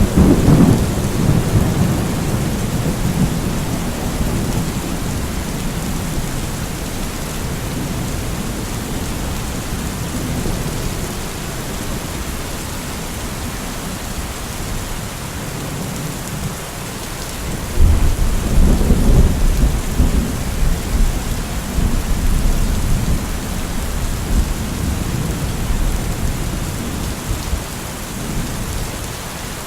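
Steady rain falling, with rolling thunder: a low rumble right at the start and another that breaks out about eighteen seconds in and rumbles on for several seconds.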